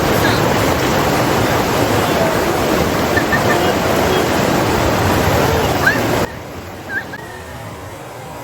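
Loud rushing water, a dense steady roar that cuts off abruptly about six seconds in, leaving a quieter steady hiss.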